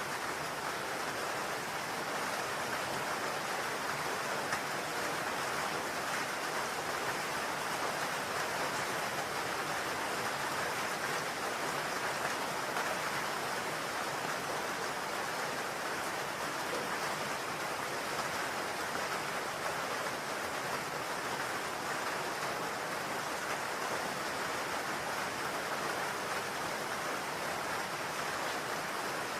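Steady rain falling on a roof, an even hiss of drops without pause or change.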